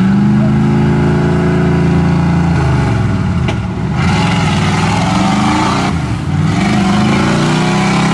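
Chevy 4x4 mud truck's engine revving hard under load as it fights through deep mud. The revs sag a few seconds in and again near the end, then climb back up each time.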